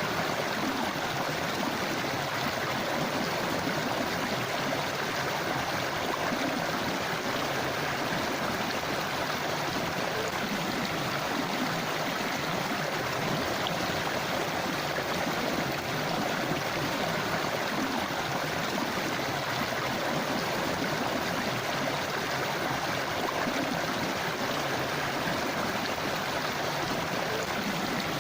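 River water flowing steadily over rocks, a continuous rushing and gurgling with no breaks or single events.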